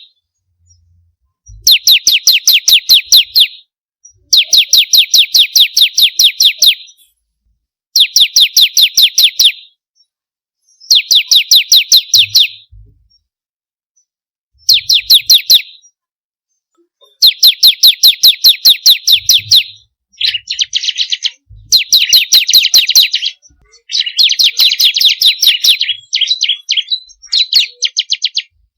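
Bar-winged prinia (ciblek kristal) singing: a run of short phrases, each a rapid, even series of sharp high notes, with brief pauses between. In the second half the phrases turn harsher and more broken, like chattering.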